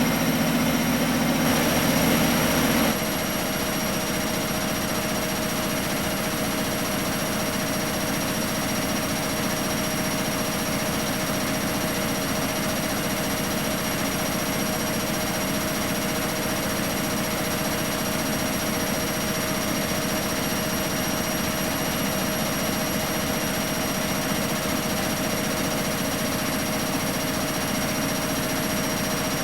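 Miele Professional WS 5426 commercial washing machine running steadily with a constant whine. About three seconds in, a lower hum cuts out and the machine goes on slightly quieter.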